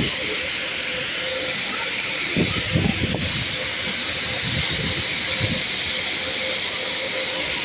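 Steady hiss of car wash equipment running, with a few low thumps about two and a half to three seconds in.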